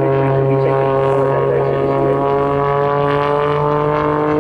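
Jet-boosted Pitts aerobatic biplane flying a display, its engine and propeller giving a steady drone whose pitch rises slowly.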